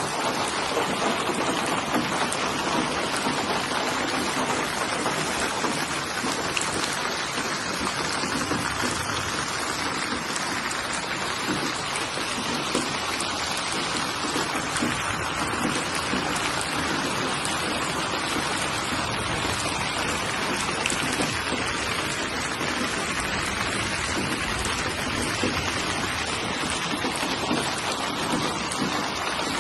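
Steady rainfall, a continuous even hiss of rain on surfaces.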